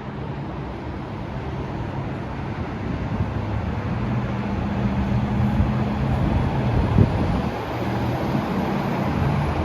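Washington Metro 3000-series train running into the station, a low rumble that grows steadily louder, with a single knock about seven seconds in.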